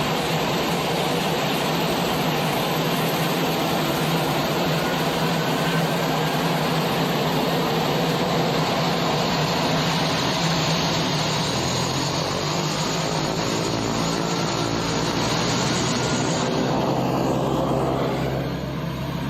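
Twin turboprop engines and propellers running loud and steady at high power during an engine run-up, just after a propeller balance. About seventeen seconds in, the power comes back and the sound drops and deepens.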